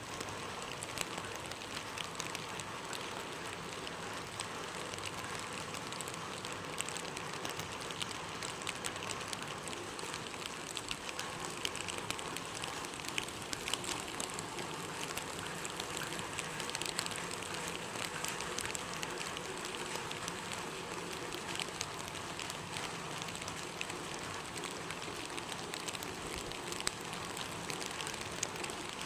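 Steady rain falling, a constant patter with many scattered sharp drop ticks.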